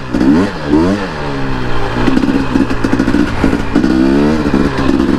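Dirt bike engine running, blipped up and down a few times in the first second, then running more steadily at a low, even pitch.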